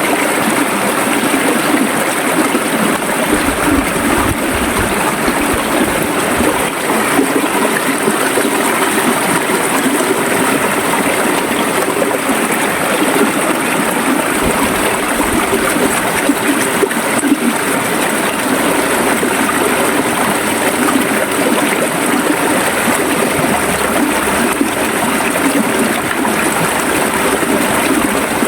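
River water flowing and gurgling over rocks in a steady, continuous rush.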